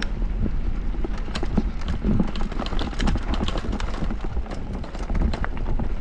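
Electric mountain bike descending a rough downhill trail: tyres running over dirt and rocks, with a quick, irregular clatter of chain and frame knocks over a low rumble.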